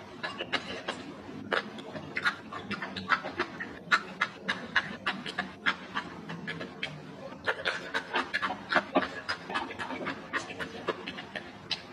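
Close-up chewing of crispy fried salted fish with rice: many small crunches and crackles in quick, irregular succession.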